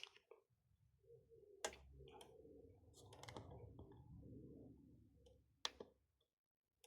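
Sharp plastic clicks of buttons being pressed on a car radio head unit: one at the start, one about a second and a half in and a pair near the end, over a faint low hum.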